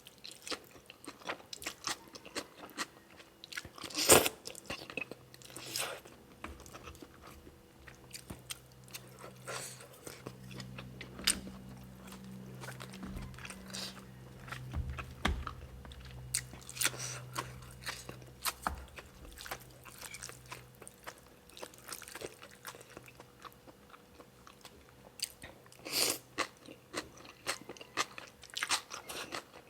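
A person eating close to the microphone: repeated bites with crunching and chewing, the loudest crunch about four seconds in. A low steady hum runs under it through the middle of the stretch, for about ten seconds.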